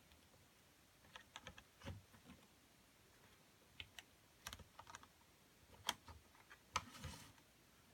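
Quiet, irregular small clicks and taps of a plastic HO-scale model locomotive being handled and set onto model railway track, coming in small clusters.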